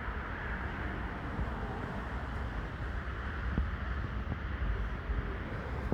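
Steady rumbling wind noise on the microphone, with a few faint ticks.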